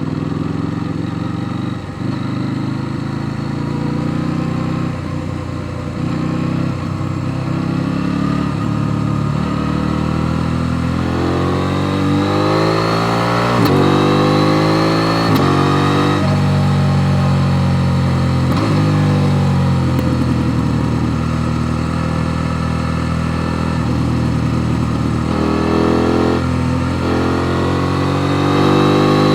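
KTM Duke 890 R's parallel-twin engine under way, revving up and dropping back repeatedly as the rider accelerates and shifts gear. The pitch climbs steeply from about a third of the way in, with a sharp drop at a shift, then keeps rising and falling.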